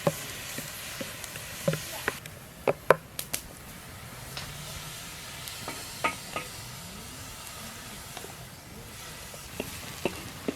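Food sizzling in a pan while it is stirred, with a steady hiss and a utensil knocking sharply against the pan several times, loudest about three seconds in.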